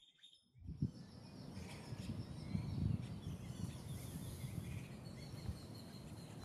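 Birds chirping over a low, uneven rumble that sets in just under a second in.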